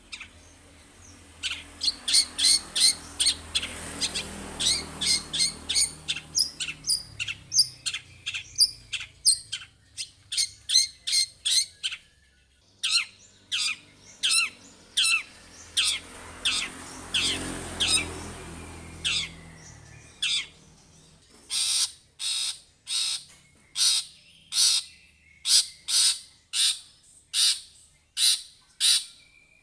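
Long-tailed shrike (cendet) singing a rapid series of short, harsh, repeated notes, about two to three a second, with two brief pauses.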